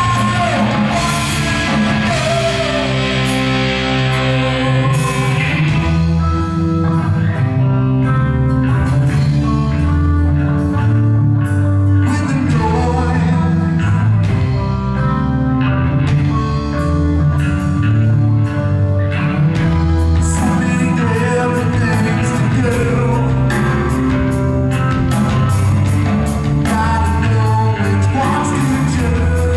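Christian rock band playing loudly, with electric guitars, bass and drums keeping a steady beat.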